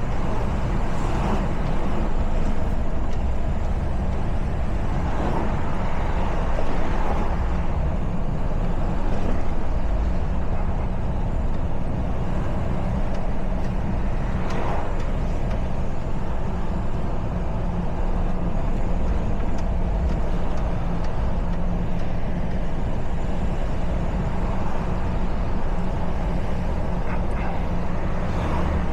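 Truck's diesel engine running steadily on the move, a low drone under road and tyre noise, with a few brief swells of passing traffic.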